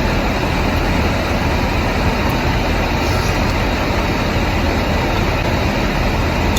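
Steady rumble and hiss of a running car heard from inside its cabin.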